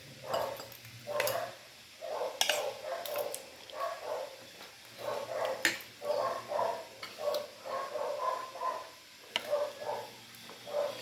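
A dog barking repeatedly in short calls, with a few sharp clicks.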